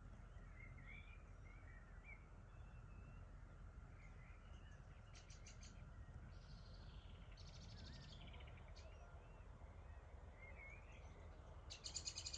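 Faint evening birdsong from several small birds: scattered chirps and short warbling phrases, with rapid trills now and then and a louder rapid trill near the end, over a steady low rumble of outdoor background noise.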